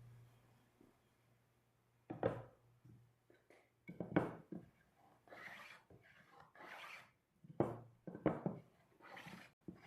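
Woodworking handling sounds: several sharp knocks of wood on wood, with short scraping strokes in between.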